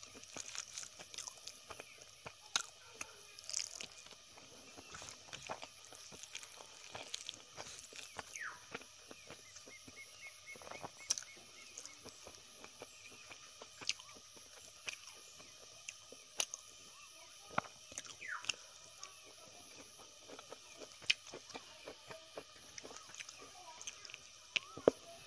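Close-up mouth sounds of a person eating rice and vegetables by hand: chewing and lip smacks, heard as many short, sharp, irregular clicks.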